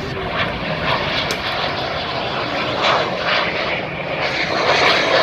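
Aircraft engines of display planes flying overhead: a loud, steady rushing engine noise.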